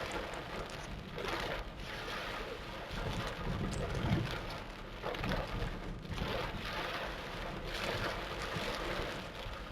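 Torrential rain pouring down, a dense hiss that swells and eases in waves. A brief low rumble comes about four seconds in.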